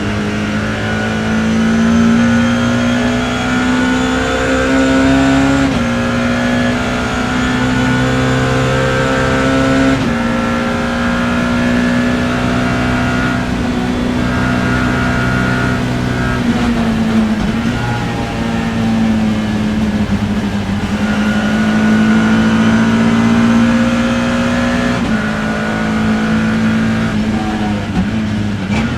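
BMW E30 M3 race car's four-cylinder engine heard from inside the car, pulling hard with its pitch climbing and dropping sharply at each upshift, about six and ten seconds in. It falls away for a corner around the middle, then climbs again to another upshift near the end.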